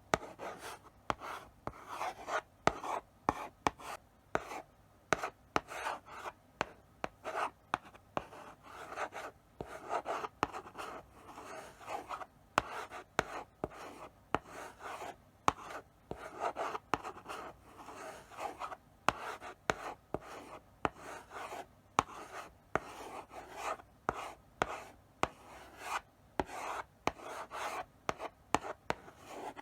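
Chalk writing slowly on a blackboard: short scratchy strokes in an irregular rhythm, with sharp taps where the chalk meets the board at the start of a stroke.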